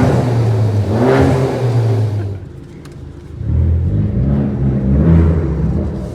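A car engine accelerating hard under throttle. It eases off for about a second a little over two seconds in, then pulls hard again and fades toward the end.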